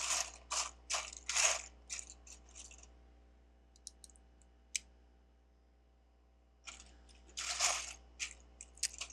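Loose plastic Lego bricks clattering and rattling as hands sift through a pile of pieces. It comes in two spells, over the first three seconds and again near the end, with a few single clicks between.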